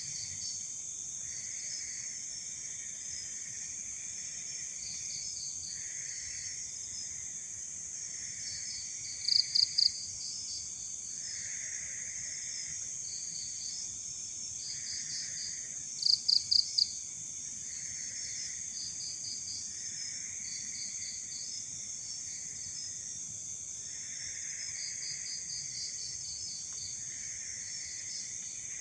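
Night insect chorus: a steady high drone of crickets with rows of short repeated chirps. Twice, about ten and sixteen seconds in, a closer insect gives a loud burst of three or four sharp chirps.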